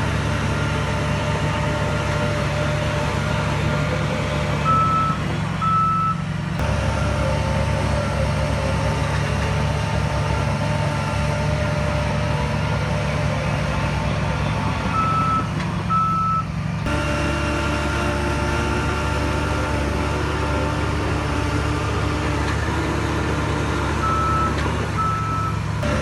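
Heavy diesel earthmoving machine running steadily at a low pitch, its reversing alarm giving three pairs of short high beeps spaced about ten seconds apart. The engine note shifts twice, about a third and two thirds of the way through.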